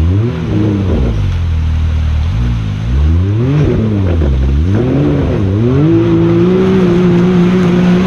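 Side-by-side UTV engine revving up and down again and again as the buggy works its way up a rocky waterfall climb. It then holds a steady high rev for the last couple of seconds.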